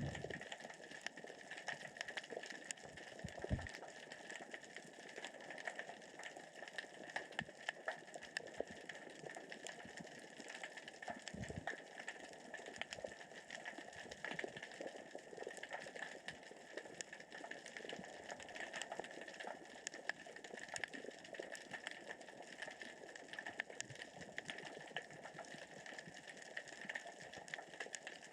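Underwater ambience: a continuous dense crackle of tiny clicks and ticks, which the diver takes for small rocks rolling across the sea floor with the current and tide. A couple of brief low thumps stand out.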